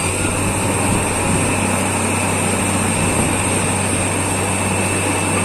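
Borewell drilling rig running steadily: a loud, even machine drone with a constant high whine over it.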